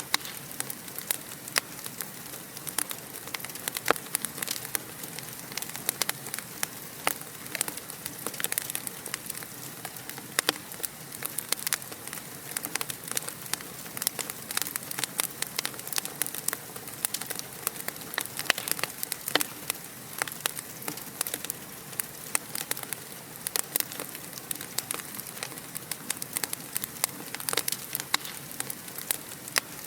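Wood fire crackling in a fireplace: a steady hiss broken by many irregular sharp pops and snaps.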